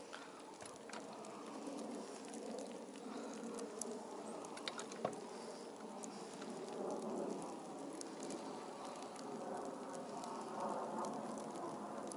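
Light pattering of falling snow, with scattered small ticks over a low steady background and one sharper click about five seconds in.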